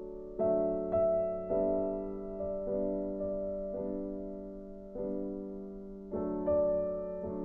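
Background music: slow, soft piano notes, each struck and left to fade.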